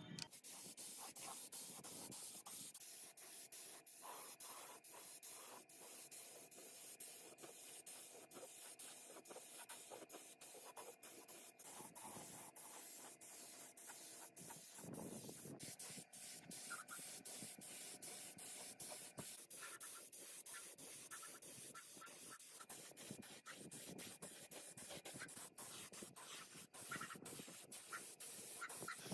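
Faint, steady scratchy rubbing with many small irregular clicks over a high hiss.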